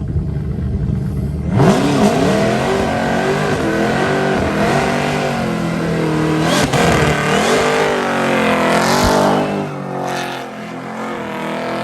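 Supercharged, methanol-fuelled engine of a 970-horsepower police car idling, then about one and a half seconds in revving hard and repeatedly, its pitch rising and falling over a loud hiss of spinning tyres, typical of a burnout. The revs drop back about ten seconds in.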